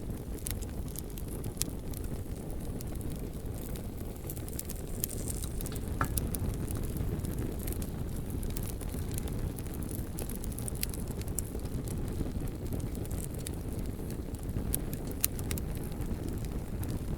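Bonfire burning: a steady low rumble of flames with scattered sharp crackles and pops from the burning logs, and a brief high hiss about six seconds in.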